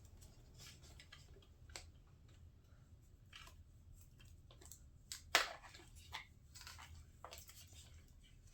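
Faint handling noises from hands working with an RC truck and its LiPo battery: scattered light clicks and rustles, with one sharper click about five seconds in.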